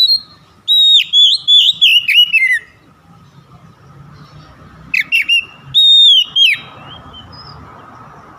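Oriental magpie-robin (kacer) singing: two bursts of loud whistled notes, the phrases gliding and ending in a falling note.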